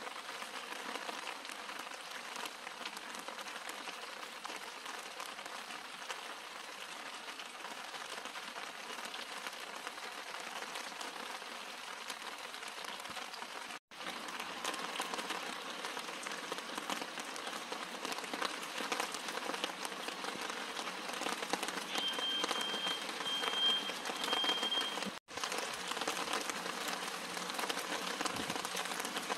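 Steady rain falling on the leaves and blossoms of snowball viburnum and Madagascar periwinkle, a dense crackling hiss. It cuts out briefly twice, and a thin high steady tone sounds in short pieces for about three seconds shortly before the second cut.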